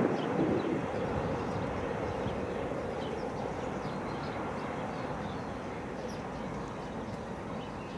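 Distant train running across a river bridge, its steady noise slowly fading as it moves away, with faint bird chirps. A gust of wind on the microphone dies away in the first second.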